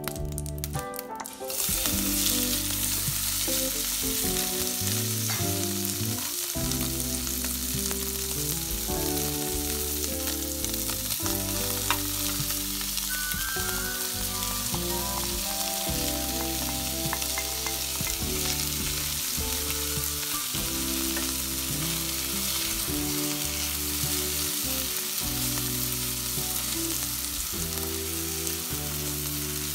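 Boiled potato slices and grated gouda sizzling steadily as they fry in olive oil in a stainless steel pot, with a wooden spoon stirring through them. The sizzle starts suddenly about a second and a half in.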